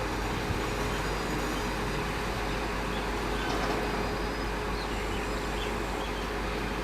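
Electric multiple-unit local train running, a steady rumble with a faint steady hum.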